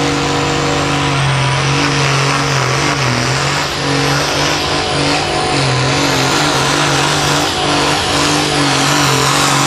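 John Deere hot farm pulling tractor's turbocharged diesel engine running flat out under load while pulling the sled. The engine pitch wavers and dips briefly a few times before picking back up.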